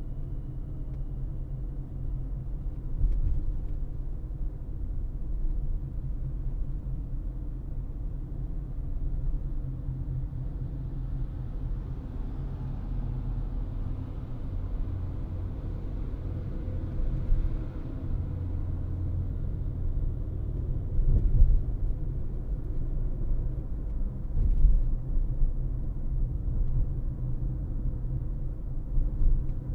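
Car driving with a steady low road and tyre rumble. A hiss swells and fades in the middle, and a few short thumps break through.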